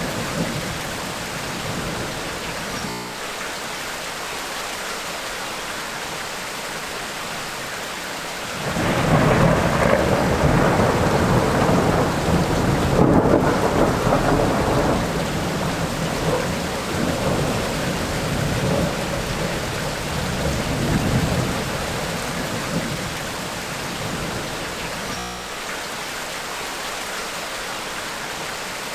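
Tropical rainstorm: steady rain falling throughout, with a long roll of thunder that swells suddenly about a third of the way in and slowly dies away over the next dozen seconds.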